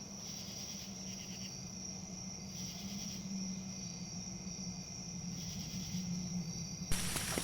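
Crickets chirping: a steady high trill with pulses of chirping every second or so, over a low steady hum. About seven seconds in, a sudden louder rush of crackling, pattering noise sets in.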